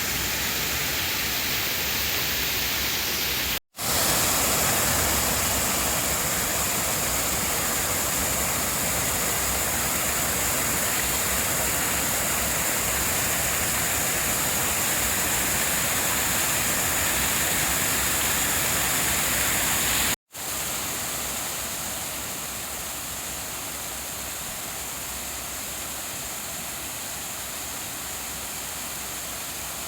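Steady rush of water pouring over a rain-swollen check dam. Cut off abruptly twice, about four and twenty seconds in, resuming each time with a slightly different tone.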